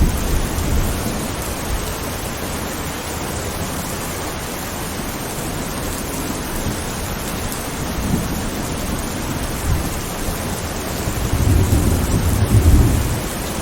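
Steady rain with low rolls of thunder: one dying away about a second in, a brief one past the middle, and a louder rumble near the end.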